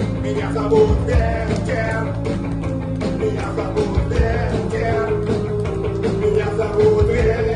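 Rock song played by a band, with a singer holding long notes over drums and other instruments.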